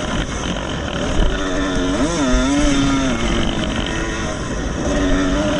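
Vintage motocross motorcycle engines running, their notes rising and falling with the throttle; one bike revs up and back down about two seconds in.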